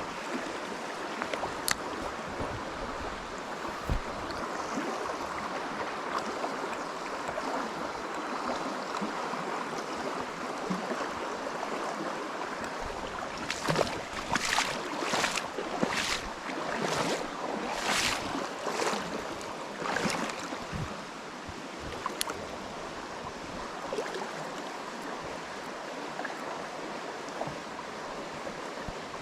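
Steady rush of flowing river water, with a run of about eight short swishing noises around the middle.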